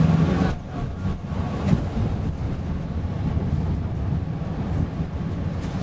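PESA Fokstrot low-floor tram running along the line, heard from inside the car: a steady low rumble from the wheels and running gear, with a couple of faint clicks.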